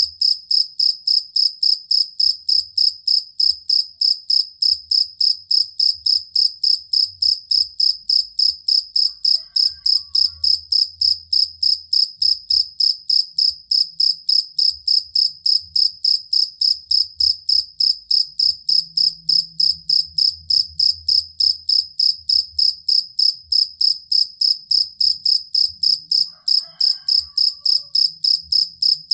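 Field cricket (jangkrik kalung) chirping in a steady, unbroken train of high-pitched chirps, about three to four a second.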